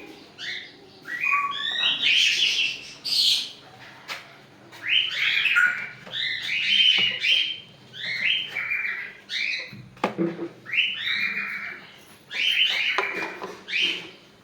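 Pet parrots calling: clusters of harsh, chattering chirps and squawks that come again every second or two.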